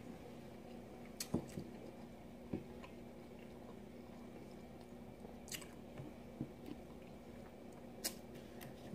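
Faint mouth sounds of a person chewing a California sushi roll, with a few short sharp clicks, over a steady low hum.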